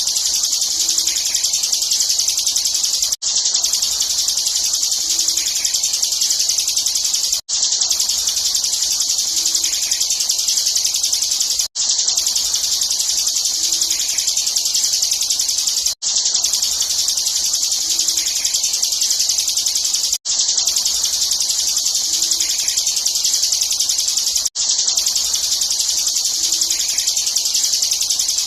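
Bar-winged prinia (ciblek) singing a fast, unbroken, high-pitched trill in the 'ngebren' style, cut by a very short gap about every four seconds.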